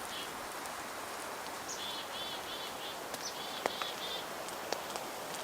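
Steady sizzling hiss with scattered small pops from garlic-oil-basted bread cooking in a pan. Over it, a small bird gives short calls in quick runs of two or three notes several times.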